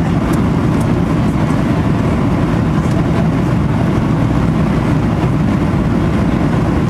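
Steady, loud rumble of an airplane, unchanging throughout, with most of its energy deep and a faint hiss above it.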